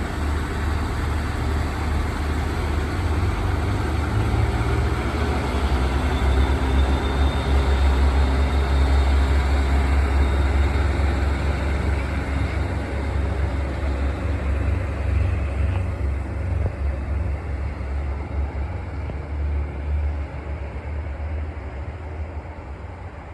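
Northern Ireland Railways diesel multiple unit passing through the station: a steady rumble that builds to its loudest mid-way and dies away toward the end, with a faint high whine for a couple of seconds in the middle.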